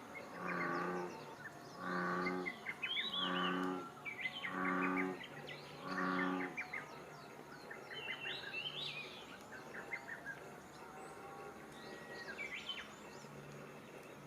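A deep, moo-like call repeated five times about a second and a half apart, typical of an American bullfrog calling from the pond, while small birds sing and chatter in quick high chirps and trills that carry on alone after the calls stop.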